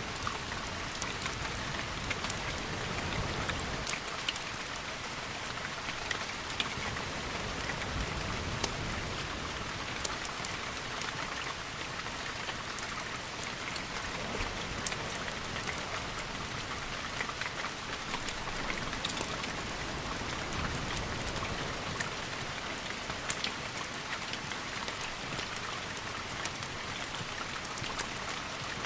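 Steady rain with many small sharp drop ticks. A soft low rumble swells and fades now and then.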